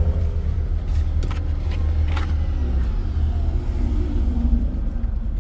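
Steady low rumble of a moving car's engine and tyres heard inside the cabin, with a few brief clicks about one and two seconds in.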